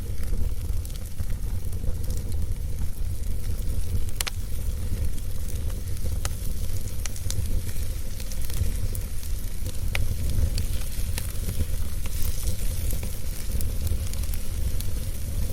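Wood fire burning, with a steady low rumble and hiss under scattered crackles and pops, a few of them sharper and louder.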